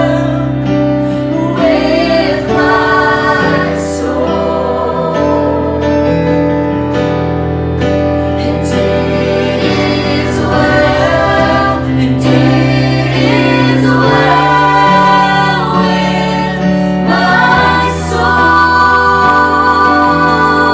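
Church worship music: a band with singers, the voices gliding over sustained chords and a steady bass.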